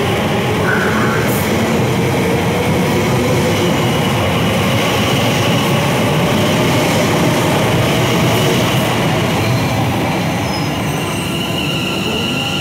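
Class 345 electric multiple unit running past close by, the steady rumble of its wheels on the rails joined by a slowly rising motor whine. Near the end a high steady squeal comes in.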